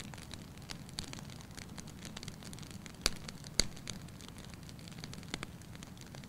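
Wood fire crackling in a fireplace: a steady low hiss of flame under scattered sharp crackles, with two louder pops a little past halfway.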